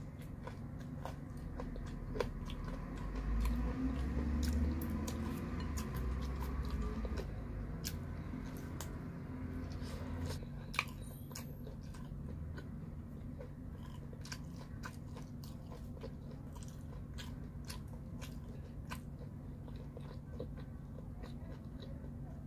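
Close-up eating of pizza and pear slices: biting and chewing, with many short, sharp mouth clicks, over a steady low hum. A low rumble swells about two seconds in and fades by about eight seconds.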